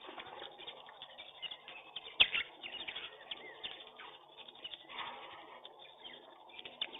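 Mixed flock of pigeons and small birds cooing and chirping, many short calls overlapping, with one sharp knock about two seconds in.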